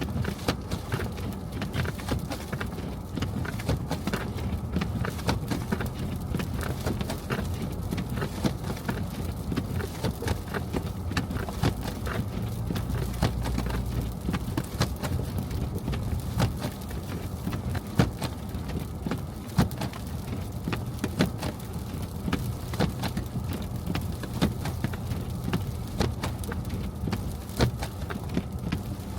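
Car driving through snow, heard as a steady low road rumble with many irregular sharp clicks and ticks throughout.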